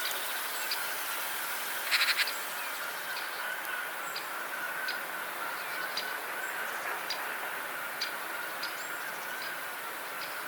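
Small birds chirping, short high calls at irregular intervals over a steady hiss, with a brief rapid chatter about two seconds in.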